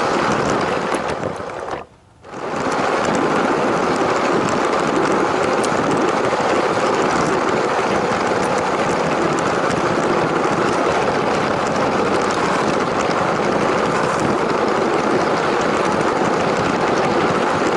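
LEGO toy train running: its electric motor and its wheels rolling over plastic track make a steady, even rumble. The sound fades out briefly about two seconds in and then comes back at the same level.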